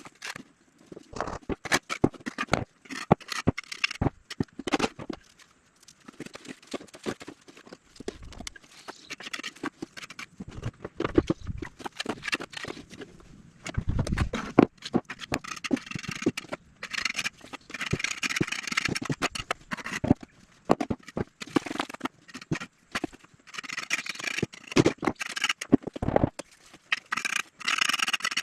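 Hand work on the fireplace top: irregular knocking and clicking of tools and materials, broken by stretches of scraping, which grow more frequent in the second half.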